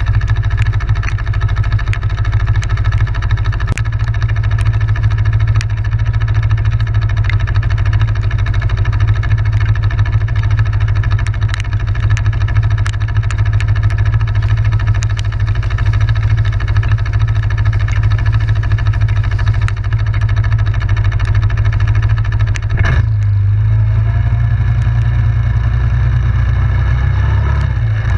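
ATV engine running steadily under way, with scattered sharp knocks. The engine note changes abruptly about three-quarters of the way through.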